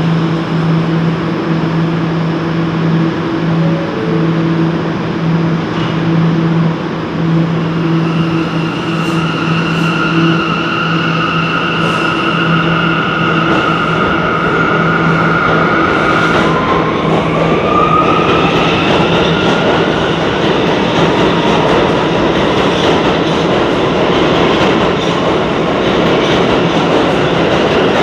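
Passing train: a steady low hum, joined about a third of the way in by a high whine. Past the middle the whine rises in pitch as the hum drops away, and the broad rumble of the train's running grows louder.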